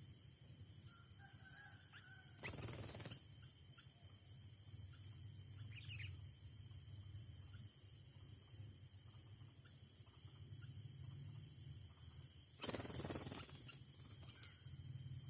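Insects droning steadily in several high, even tones, with a few short bird chirps scattered through. Twice there is a brief burst of rustling noise, the second one the loudest sound.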